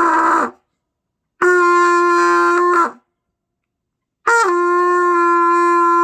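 Trumpet in beginner's long-tone practice, holding the same note ('sol') in three blows: one ends about half a second in, a second lasts about a second and a half, and a third starts near four seconds, begins a little high and settles onto the note.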